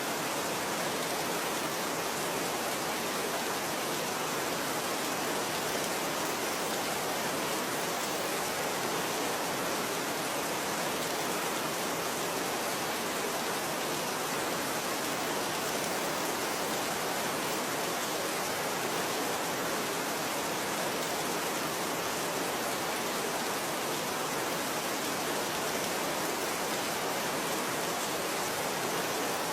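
Steady rain falling: an even, unchanging hiss with no single drops, thunder or other sounds standing out.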